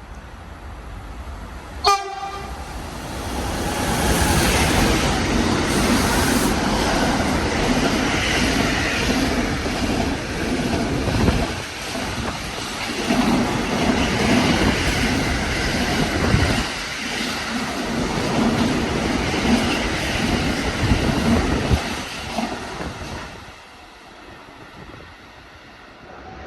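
A short blast of a train horn, then a train passing for about twenty seconds with a dense rumble of wheels on rails, which dies away near the end.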